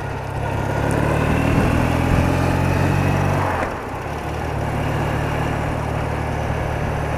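BMW R80RT's air-cooled boxer twin running on the road, with rushing wind and road noise. A little over three and a half seconds in, the engine note drops away briefly, as when the throttle is eased off, then picks up again and runs steadily.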